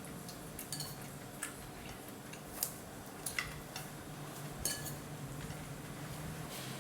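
Cutlery clinking against a soup bowl while eating: several short, sharp clinks spaced irregularly, over a low hum.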